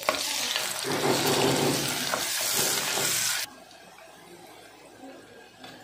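Onions and green capsicum sizzling loudly in hot oil in an aluminium pressure cooker as they are stirred with a wooden spatula; the loud sizzle cuts off suddenly about three and a half seconds in, leaving a much fainter sizzle.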